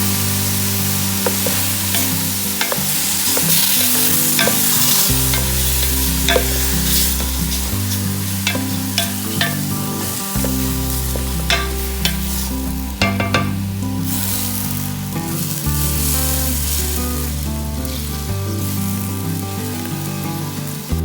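Food sizzling as it fries in a pot, with a spoon stirring and clicking against the pot again and again. A slow, steady bass line of background music plays underneath.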